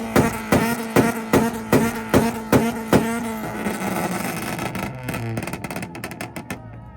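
A tuned car engine held on a two-step launch limiter, banging and popping at a steady two to three bangs a second for about three seconds. The revs are then released and fall away, crackling briefly near the end.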